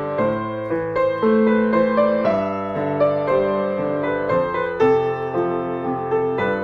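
Slow, gentle piano music, a sequence of held notes and chords.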